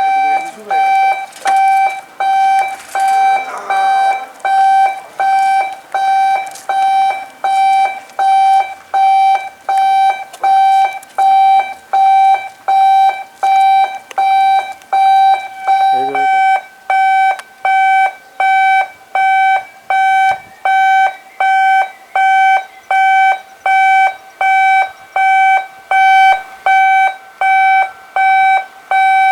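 Electronic warning alarm beeping in a steady rhythm, about one and a half high single-pitched beeps a second.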